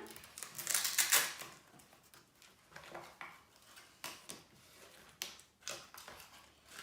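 Handling noise from opening a small wooden flower press: rustling of paper and cardboard with light taps and clicks, loudest about a second in, then quieter scattered taps.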